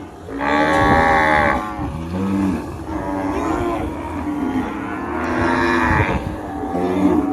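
Cattle mooing: a loud, drawn-out moo about half a second in, another about five seconds in, and lower, shorter moos between them.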